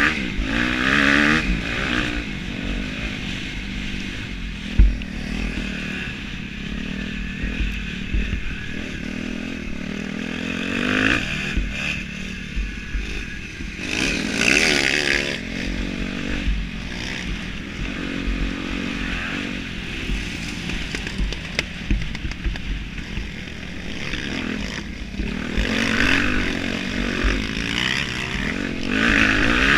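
Motocross bike engine revving hard and dropping off again and again, the pitch climbing several times, with wind buffeting the microphone.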